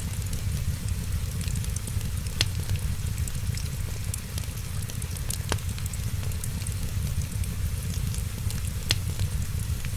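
Fireplace crackling, with fine scattered crackles and three sharp pops over a steady low rumble.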